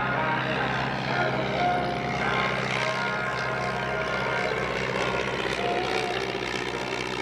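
Light piston-engine propeller aircraft running steadily.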